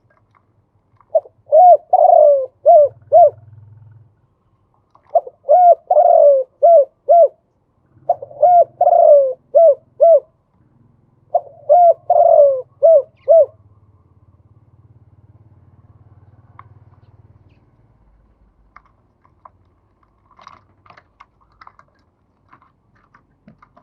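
Male spotted dove cooing: four phrases of about five short coo notes each, one phrase every three to four seconds. The calling stops about halfway through, leaving only faint scattered clicks.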